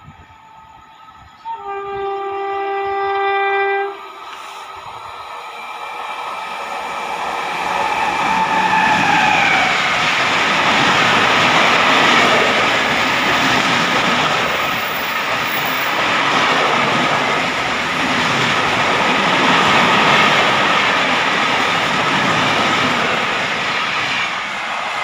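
Indian Railways WAP7 electric locomotive's horn: one steady blast of about two and a half seconds, then a second blast whose pitch drops as the locomotive runs past. An express train's coaches then rush through at speed, loud continuous wheel and rail noise until the last coach goes by near the end.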